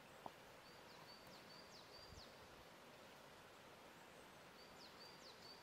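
Faint outdoor ambience with a steady hiss and a small bird singing two phrases of short high notes, each followed by a quick downward sweep, the first about a second in and the second near the end.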